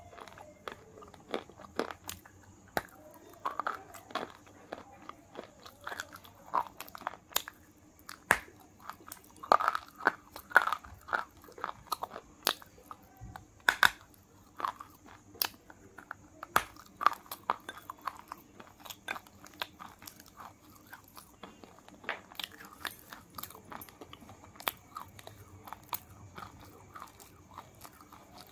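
Crunching and chewing of a KitKat wafer bar: many sharp, irregular crunches as the crisp wafer is bitten off and chewed, a few louder bites standing out.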